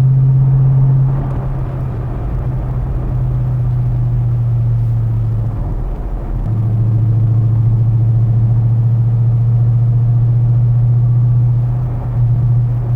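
2015 Mustang GT's 5.0 V8 with an MBRP race exhaust and H-pipe, heard inside the cabin at cruising revs: a steady, low exhaust drone. It breaks off briefly about six seconds in, then returns and holds, with a small change in pitch near the end.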